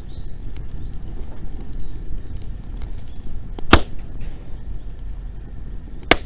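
Wood bonfire crackling with small scattered ticks and two loud, sharp pops, one a little past the middle and one near the end, over a steady low rumble.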